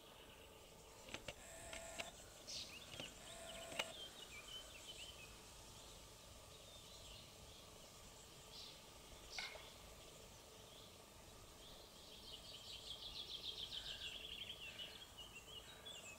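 Faint outdoor ambience with small birds calling: scattered short high chirps in the first few seconds and again around nine seconds in, then a rapid, pulsing trilled song from about twelve seconds in.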